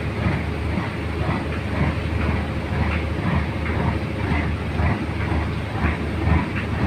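Boat engine running steadily under way, a continuous low, rumbling drone.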